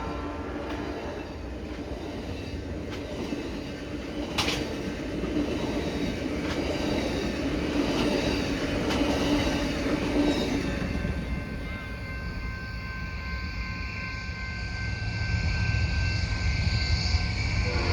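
A train rolling past, its wheels clicking over rail joints under a steady rumble. About two-thirds of the way in, a thin high steady whine of wheel squeal joins in.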